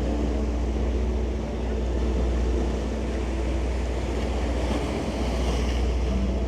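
Tour boat's engines running steadily under way: a constant low drone with water rushing past the hull.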